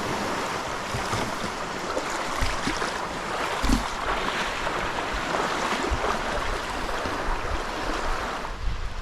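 Water washing and lapping around a canoe on the open lake, with wind on the microphone and a low thump about three and a half seconds in.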